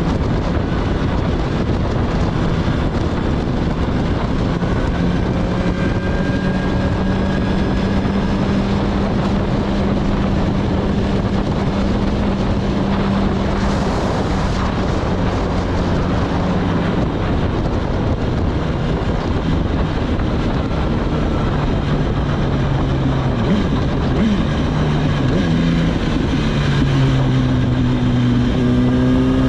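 A car on the road: a steady engine hum under loud road and wind noise. Near the end the engine note shifts and rises as the car speeds up.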